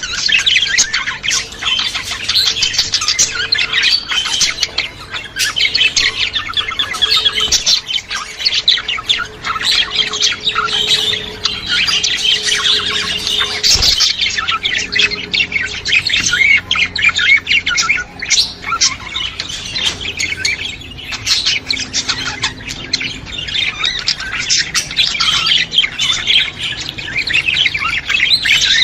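A flock of budgerigars chattering nonstop, with many overlapping chirps, warbles and squawks.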